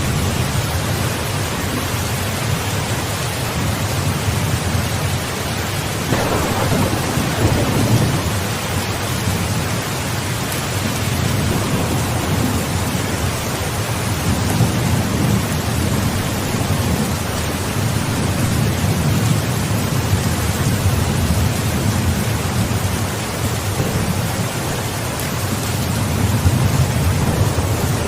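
Steady rain with thunder rumbling low and rolling through it. A louder peal of thunder begins about six seconds in, and weaker swells of rumble follow later.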